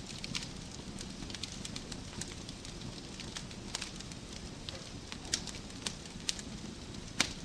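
Wood fire burning in a fireplace: a steady low rumble with irregular sharp crackles and pops, the loudest pop near the end.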